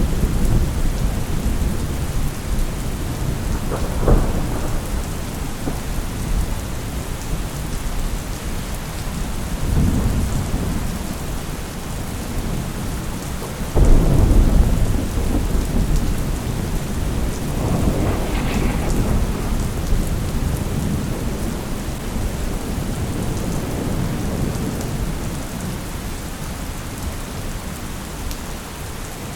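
Steady heavy rain with repeated rolls of thunder. The loudest clap breaks suddenly about 14 seconds in, and further low rumbles come near the start, around 10 seconds and around 18 seconds.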